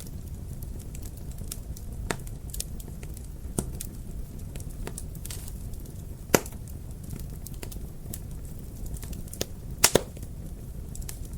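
Wood fire in a fireplace crackling, with a steady low rumble of the burning and irregular sharp pops, the loudest about halfway through and a quick double pop near the end.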